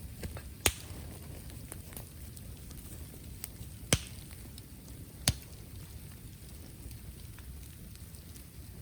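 Burning bamboo bursting in a bonfire as trapped air and steam split its sealed segments: three sharp, loud cracks, about a second in, near four seconds and a second after that, with smaller crackles between over a steady low hiss of the fire.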